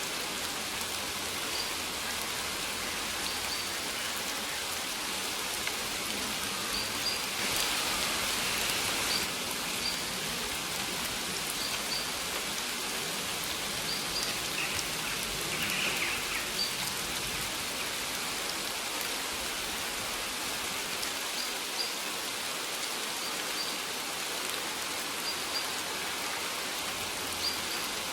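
Steady rain falling, with the patter of raindrops on surfaces, a little heavier for a couple of seconds about a quarter of the way in. Faint short high sounds recur every second or two.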